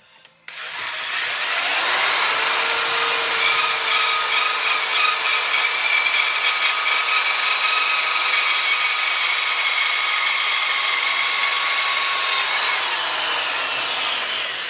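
Electric power tool working on steel plate: its motor spins up with a rising whine about a second in, runs steadily with a dense hissing noise and held whining tones, then winds down with a falling whine near the end.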